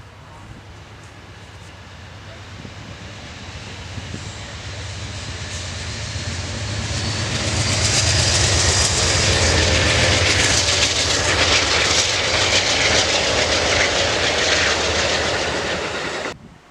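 Norfolk Southern diesel locomotives approaching and running past: a low engine hum and wheel noise that grow steadily louder for about eight seconds, hold loud, then cut off suddenly near the end.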